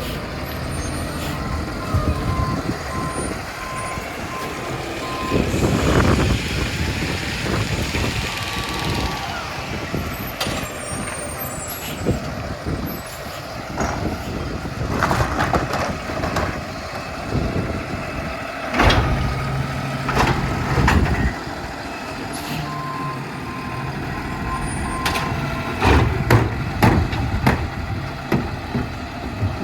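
New Way Sidewinder automated side-loader recycling truck working, its engine running steadily. A short run of even beeps sounds about a second in and again near the end, between several louder bursts of noise and knocks.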